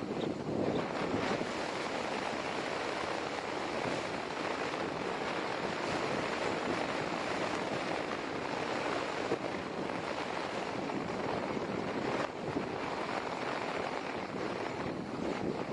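Steady outdoor noise of wind and surf, with wind buffeting the microphone.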